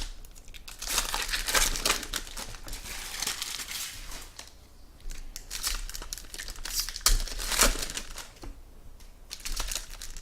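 Packaging wrap crinkling and tearing as sealed trading card packs are handled and ripped open, in several irregular stretches with a sharp click about seven seconds in.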